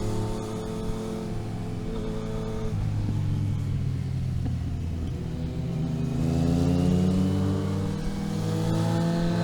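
Engine of a vehicle on the road, revs changing as it is driven. The pitch drops about three seconds in and climbs again from about halfway. It dips briefly near the end, as at a gear change, then rises once more.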